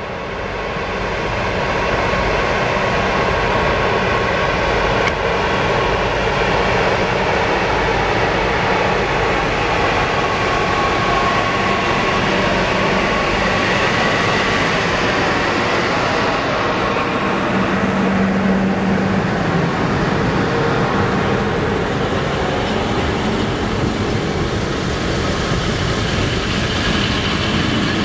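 CFR 060-EA electric locomotive pulling a passenger train away from a halt. The sound builds over the first couple of seconds, then stays as the steady noise of the locomotive and the double-deck coaches rolling past close by on the rails, with faint steady tones that come and go.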